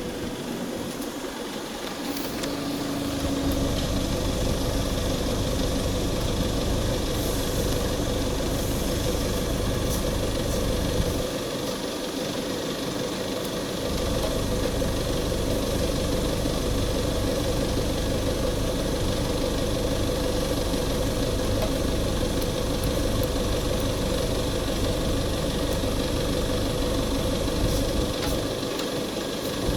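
Steady hum of running machinery with a constant tone and a deep rumble. The rumble comes in a couple of seconds in, drops out for about two seconds near the middle and briefly again near the end.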